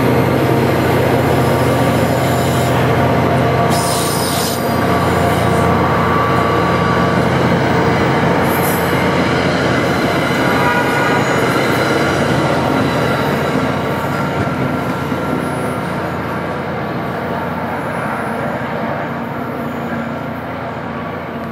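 Passenger train's coaches rolling past on the rails, the wheels squealing with several steady thin tones. The sound eases off over the last several seconds as the train moves away.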